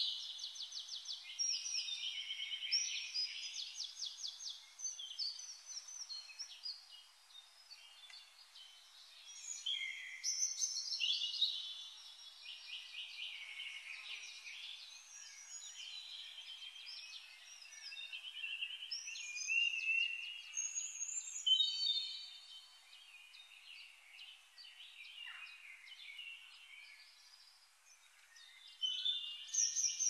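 Birdsong: several songbirds singing high, rapid trills and chirps that overlap, coming in bouts with quieter stretches between them.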